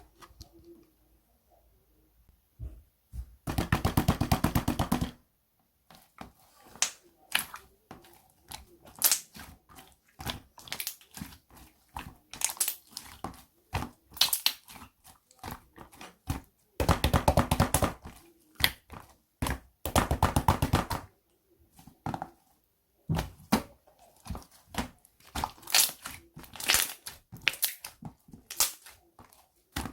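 Green jelly-textured slime being squished and stretched by hand, giving many sharp wet clicks and pops. There are dense, rapid runs of crackling pops about three and a half seconds in and twice more past the middle.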